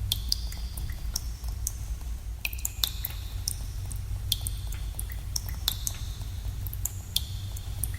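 Water drops falling in a cave, several a second at irregular times, each a sharp plink with a short high-pitched ring. A steady low rumble of cave ambience runs underneath.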